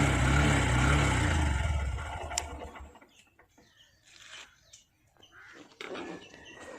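Honda SP125's 124 cc single-cylinder four-stroke engine idling steadily, then cutting off suddenly about three seconds in. Faint bird calls follow.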